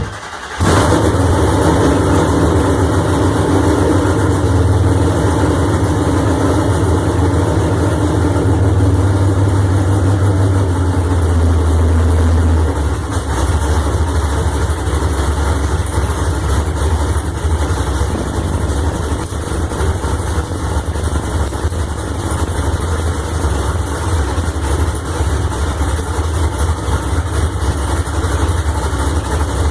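GM LS2 6.0-litre V8 running on its first start-up: it comes in loud less than a second in, holds a fast idle, and settles to a lower steady idle about twelve seconds in.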